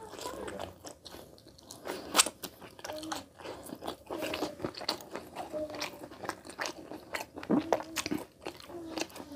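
Close-up mouth sounds of a man eating rice and curry by hand: wet chewing, lip smacks and sharp clicks, with a few brief hums.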